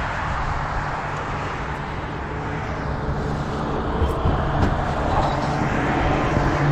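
Telehandler engine running steadily, with a few faint knocks about four seconds in.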